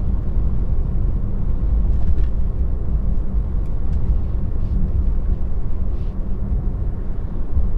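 Steady road and tyre rumble inside a moving Tesla's cabin, with no engine note.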